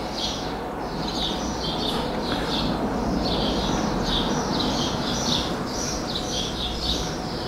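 Small birds chirping continuously, about three quick high chirps a second, over a steady low background noise.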